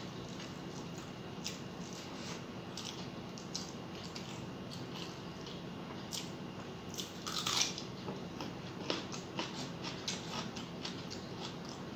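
Close-up eating sounds of a person chewing rice and fish curry: scattered wet mouth clicks and smacks, with a louder cluster about seven and a half seconds in, over a steady low hum.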